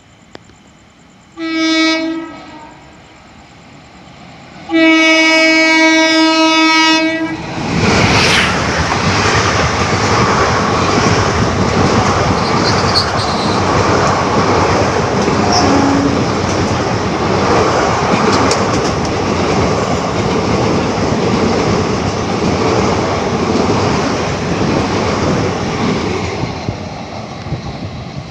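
WAP-4 electric locomotive's horn: a short blast about a second and a half in, then a long blast of about two and a half seconds. Then the express train passes at speed, a loud steady rush of wheels with clickety-clack over the rail joints that eases slightly near the end.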